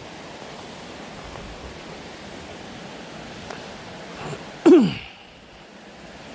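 Steady hiss, broken about two-thirds of the way through by one short, loud human vocal burst that drops sharply in pitch, like a sneeze or a sudden cry.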